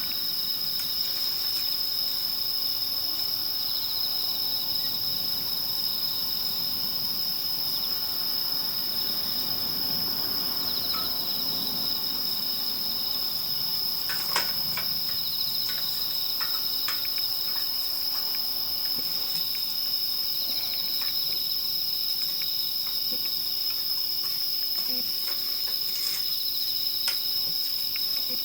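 Crickets trilling in a steady, high, unbroken chorus, with a second insect adding short pulsing calls every few seconds. Scattered sharp crackles from the campfire, a small cluster about halfway through.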